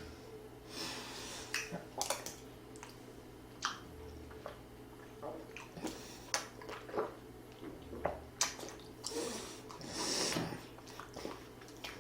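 Close-up eating noises: chewing and slurping, with scattered sharp clicks and a few short breathy hisses.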